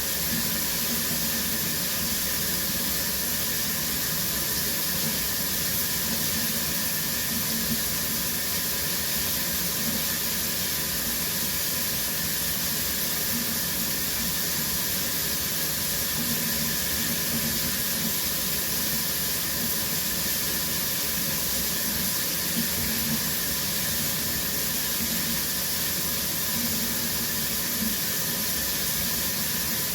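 Shower running steadily, water spraying down with an even hiss.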